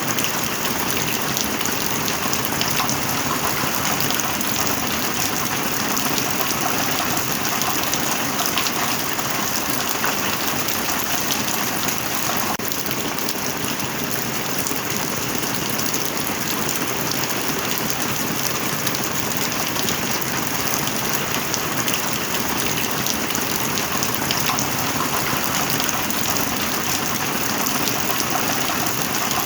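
Heavy rain falling steadily: a dense, even hiss of countless drops with no letup.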